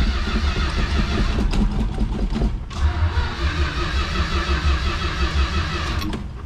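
A 1971 Dodge Demon's 318 V8 running, freshly started cold with the choke off, with a brief drop-out about two and a half seconds in before it runs on.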